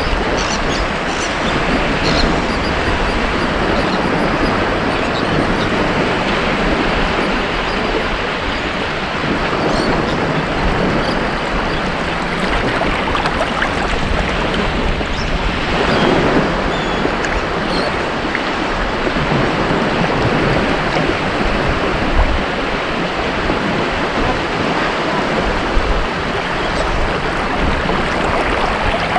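Ocean surf: waves washing continuously onto a beach, with one wave breaking more strongly about halfway through.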